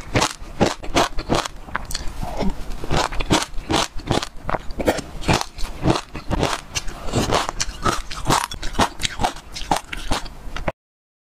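Close-miked crunchy chewing, dense with crackling bites, along with a spoon scraping inside a glass mug.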